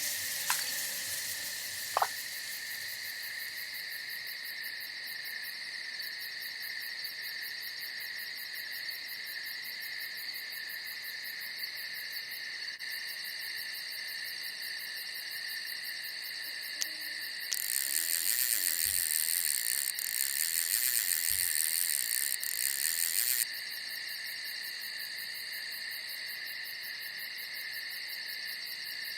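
Night chorus of crickets and other insects trilling steadily, with a louder, denser buzzing stretch for about six seconds past the middle. Two sharp clicks near the start.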